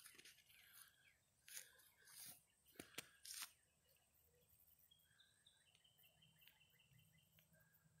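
Near silence outdoors: a few faint crunches in the first three seconds or so, then faint bird calls, short high whistled notes repeated through the second half.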